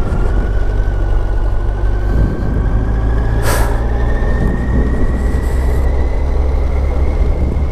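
Kawasaki ZZR 1400 inline-four running on the move under heavy wind rumble, its pitch slowly rising as the bike gathers speed. A brief hiss about three and a half seconds in.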